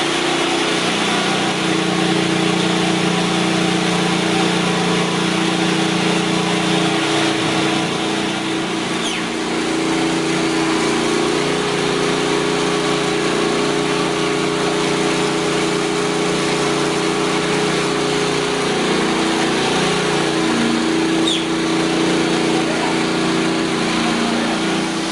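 A machine's engine running steadily under load, with a loud, even rushing noise over it.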